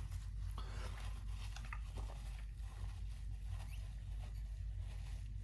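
Faint, sparse clicks of eating and drinking mouth noises over a steady low hum.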